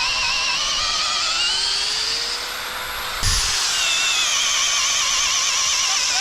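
Tractor running with a high, wavering mechanical whine that rises in pitch over the first couple of seconds. A knock comes about three seconds in, and then the whine falls in pitch.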